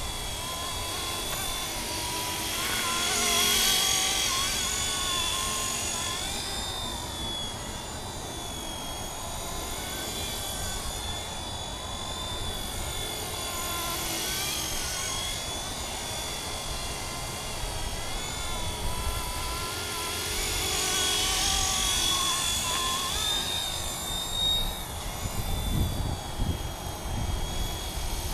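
Radio-controlled scale MD 500 model helicopter in flight: a steady high-pitched motor and rotor whine that wavers up and down in pitch as the throttle changes. It grows louder twice as the helicopter comes close. Near the end a low rumble of wind on the microphone joins in.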